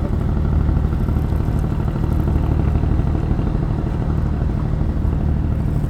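A steady engine hum, low and even, with no change in speed.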